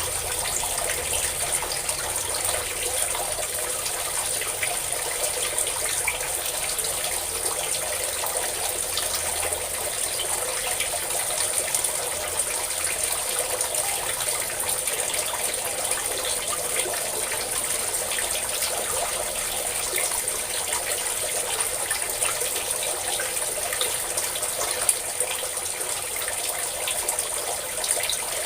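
Water pouring in a steady stream and splashing, an even rushing sound with small droplet splashes and no pause.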